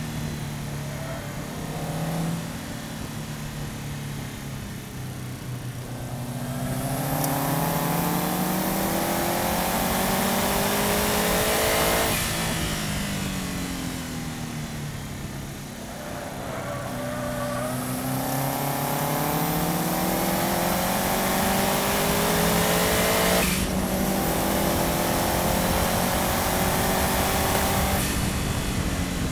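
Subaru Impreza's flat-four engine being driven hard on track, heard from a bumper-mounted camera. The revs climb through the gears and fall back between pulls, with a quick upshift about three quarters of the way in. Steady road and wind noise runs underneath.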